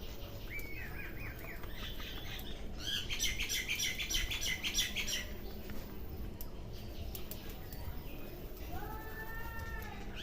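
Small birds chirping: a short series of chirps, then a dense run of high chirps in the middle and a drawn-out arched call near the end. Faint scattered clicks are heard underneath.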